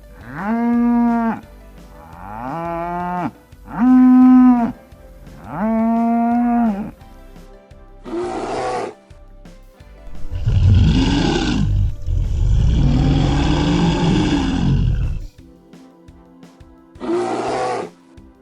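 Cow mooing four times, each moo about a second long and arching up and down in pitch. These are followed by several rougher, noisier animal calls, two of them long and loud, over faint background music.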